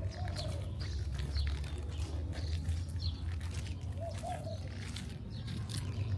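Small birds chirping in short repeated calls over a steady low city rumble.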